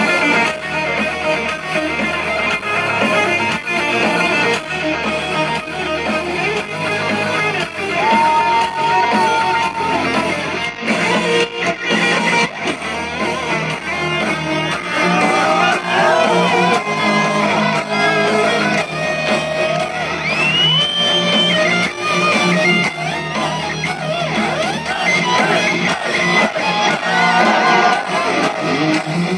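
Live heavy metal band playing an instrumental section: a distorted electric lead guitar plays a solo with bends and slides over rhythm guitar, bass and drums.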